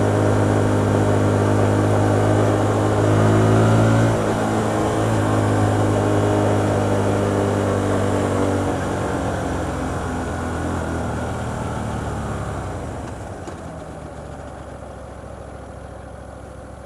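Hyosung GT125R motorcycle's 125 cc V-twin engine running under way at steady revs, with a shift in its note about four seconds in. From about nine seconds in the engine note drops and fades to a much quieter, lower sound near the end.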